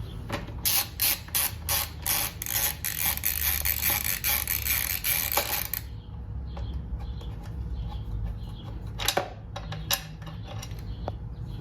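Ratchet wrench with a 10mm socket clicking rapidly as it backs out a bolt for about five seconds. Scattered single clicks follow, with one sharper click near the end.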